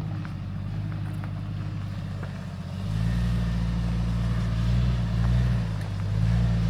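Jeep Cherokee XJ's engine running steadily at low speed on a rough off-road climb. It grows louder about three seconds in.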